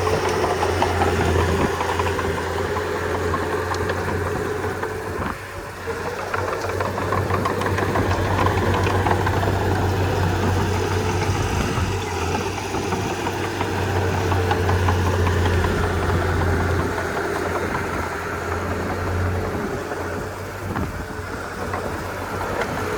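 Komatsu D31P bulldozer's diesel engine running steadily with a low drone, dipping briefly twice.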